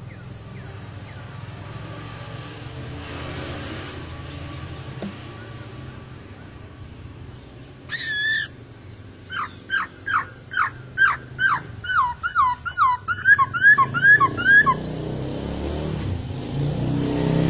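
Laughingthrush (poksai) singing: one loud harsh call about eight seconds in, then a quick run of about twenty downslurred whistled notes that speed up before stopping a couple of seconds before the end. A steady low rumble of background noise runs underneath.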